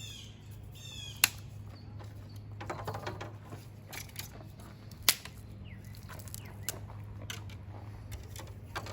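Sharp snaps and scattered small clicks of dry wood and twigs being handled, the two loudest about a second in and about five seconds in, over a low steady hum.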